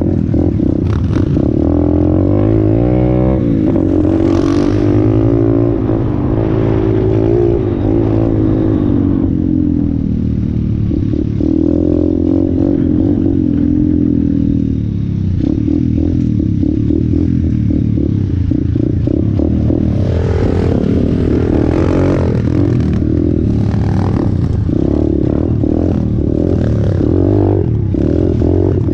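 Orion AGB 37 125cc pit bike engine running hard under riding, its pitch rising and falling as the throttle is opened and closed, with rattling from the bike over rough ground.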